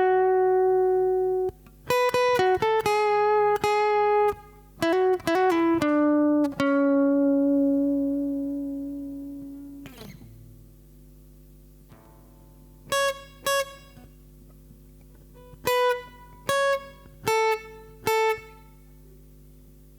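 Guitar played one note at a time, slowly and clean: a run of plucked notes, then one long note left to ring and fade away, a pause, and a few separate notes near the end.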